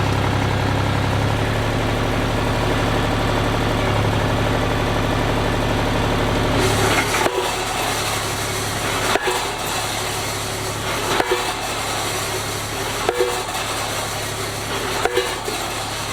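Engine-driven fence post driver running steadily. About seven seconds in, the engine note drops and regular heavy knocks begin, roughly one every two seconds, each with a brief metallic ring as a post is pounded in.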